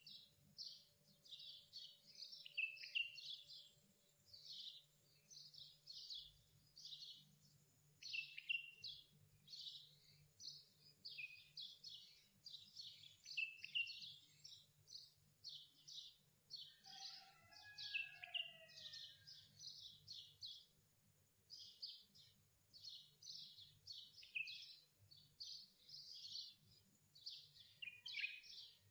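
Faint birdsong: rapid, high chirps several a second throughout, with a lower, falling call about two thirds of the way in, over a faint low hum.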